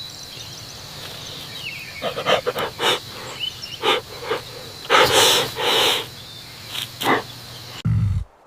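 A series of short breathy puffs from an animal, about nine over five seconds, over a steady background hiss. A deeper sound starts near the end.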